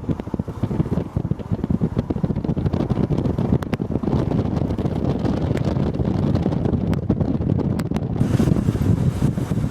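Heavy wind buffeting the microphone: a loud, uneven low rumble that grows a little brighter about eight seconds in.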